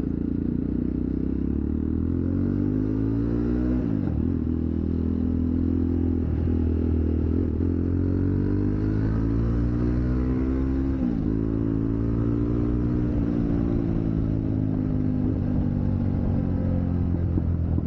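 Jawa Perak's single-cylinder engine and exhaust running under way, the note climbing steadily as the bike gathers speed. The pitch dips sharply twice, about four and eleven seconds in, and climbs again after each dip.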